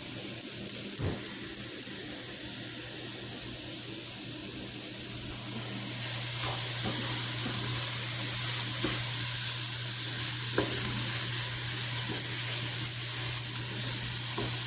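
Vegetables frying in hot oil in a pan, a sizzling that grows louder about six seconds in and then holds steady. A run of quick clicks comes near the start, and a steady low hum runs underneath.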